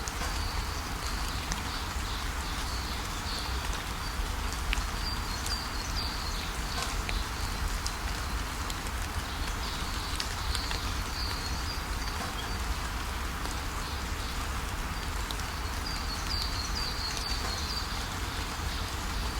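Steady rainfall, with birds chirping in short high bursts every few seconds.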